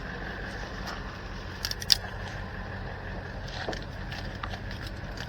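Truck engine idling steadily, with a few brief crackles and snaps about two seconds in.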